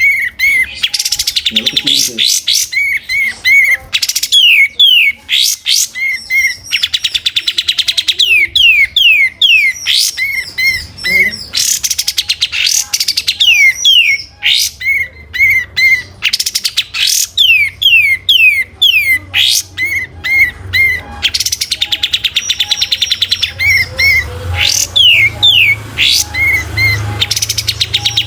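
A kapas tembak singing non-stop and energetically: quick falling whistled notes, short repeated chirps and fast trills, one phrase after another.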